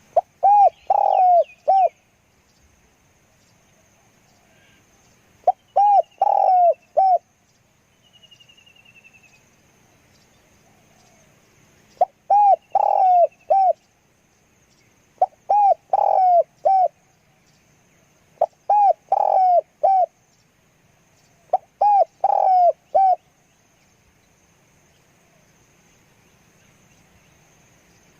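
Spotted dove cooing: six phrases, each a short run of three or four loud coos about 1.5 s long, repeated every few seconds.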